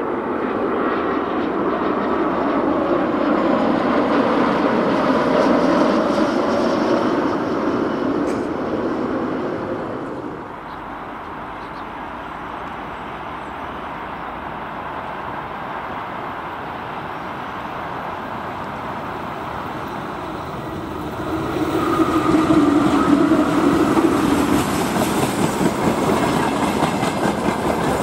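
Freight train hauled by a VL80K electric locomotive rolling past, the wagons' wheels clattering over the rail joints. It grows louder about 21 seconds in as the wagons pass close by.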